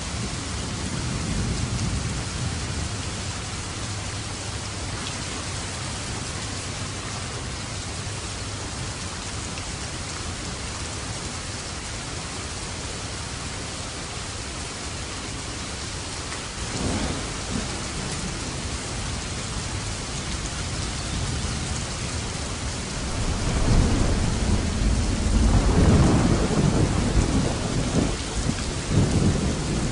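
Steady rain falling, with thunder: a soft low rumble near the start, a sharper crack a little past halfway, and a long, loud rolling peal over the last several seconds, the loudest part.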